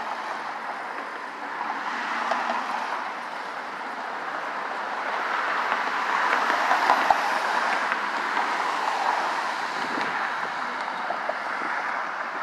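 Steady outdoor noise with no clear single source, swelling to its loudest a little past the middle and easing off again.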